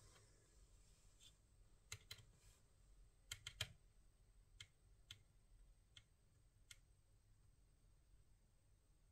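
Faint, scattered sharp clicks, about ten at irregular intervals, the loudest a quick cluster of three about three and a half seconds in.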